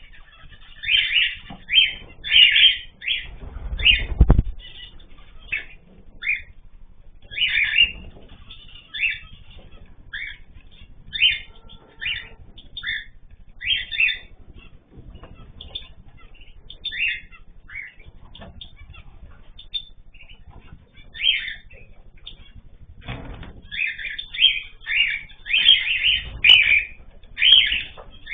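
Ornamental cage birds calling: short, sharp chirps repeated one after another, thickest near the start and again near the end. A low rustle, likely wing-flapping, comes about four seconds in.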